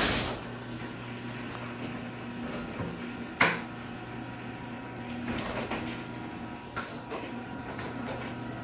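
Chamberlain garage door opener opening the door: a loud click as it starts, then the motor and drive running with a steady hum, with a couple of clicks along the way.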